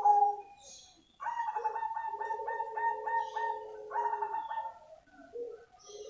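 Zebra dove (perkutut cemani) singing its cooing song: a phrase of quick, evenly pulsed coos on two notes starts about a second in and runs some three and a half seconds, after the tail of an earlier phrase; another phrase begins near the end.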